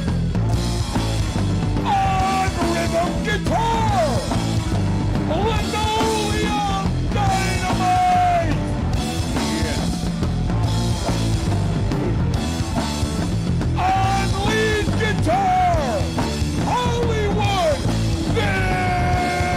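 Loud punk rock song: full band with drums and distorted guitars, and a yelled, sung vocal that comes in about two seconds in and again near the end.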